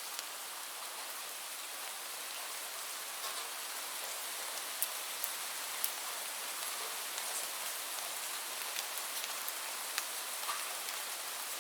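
Steady rainfall: an even hiss of rain with scattered sharper drop taps standing out now and then.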